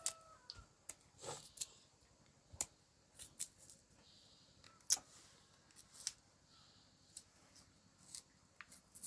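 Irregular sharp clicks and snaps, about one a second, the loudest near the middle. A rooster's crow trails off at the very start.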